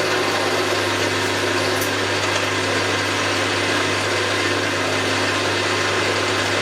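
Milling machine running steadily with a constant low hum while a drill bit cuts a 7/16-inch hole in a metal plate.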